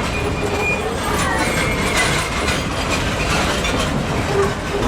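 Steam-hauled heritage train running on the rails: a steady rumble and rattle of the train in motion.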